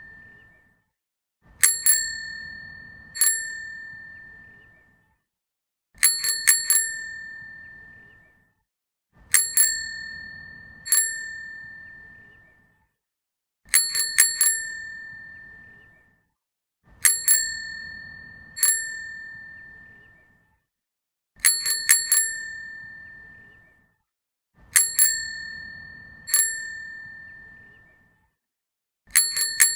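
Bicycle bell rung over and over: a quick burst of three or four dings, then a single ding a moment later, each ring dying away. The pattern repeats about every three to four seconds.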